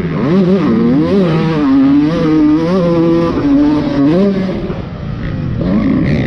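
Dirt bike engine revving up and down as it is ridden around a motocross track, its pitch climbing and dropping with throttle and gear changes. The throttle comes off briefly about five seconds in, then picks up again.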